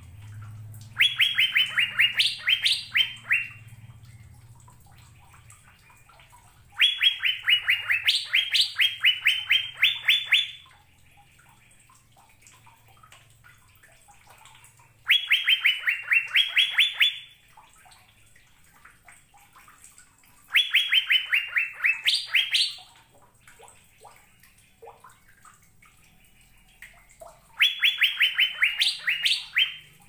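Asian fairy-bluebird song: five loud bursts, each a rapid run of about ten clear notes lasting two to three seconds. The notes step slightly down in pitch and then jump higher at the end. Pauses of a few seconds fall between the bursts.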